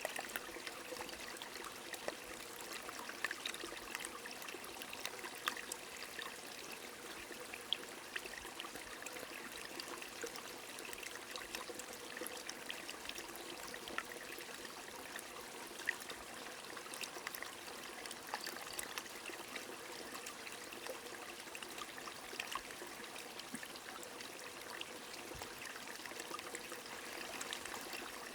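Rain falling with a stream running: a steady water hiss dotted with many small, irregular drop ticks.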